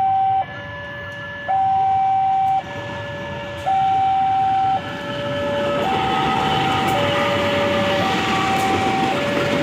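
Electronic two-tone warning alarm alternating between a high and a low tone, about a second each. From about five seconds in, the rumble of an approaching train, the CC 201 diesel-electric locomotive with its coaches, swells up beneath it.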